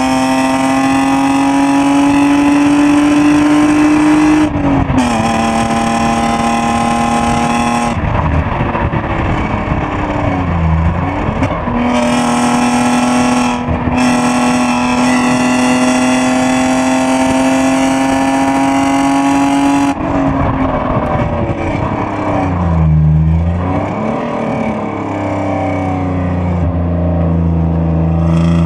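BMW E36 320i's 2.0-litre straight-six under load while being driven up through the gears. Its pitch climbs slowly as the revs build and drops at the upshifts, the first about five seconds in. The sound turns rough and lower twice, around the eight-second mark and again near twenty seconds, before it picks up once more.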